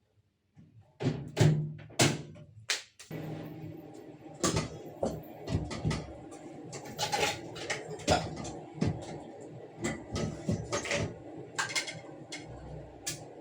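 Household handling sounds: a few sharp knocks in the first three seconds, then a run of light clicks and knocks over a steady low background hum.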